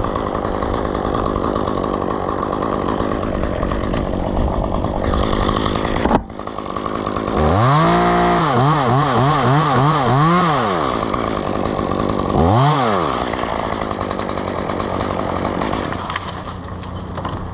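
Two-stroke chainsaw running, then revved up about halfway through. Its pitch wavers up and down for a few seconds at high revs, drops back, and is revved briefly once more before it settles.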